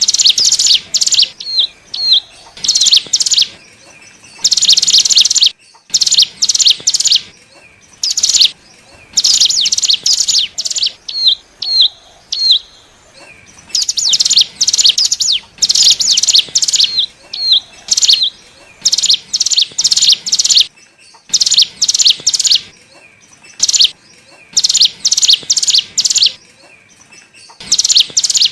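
A ciblek gunung, a small prinia, singing in rapid, high-pitched chattering bursts that repeat every second or so with short pauses. A few short upturned notes appear between some bursts. This is lure song used to call in wild birds of its kind.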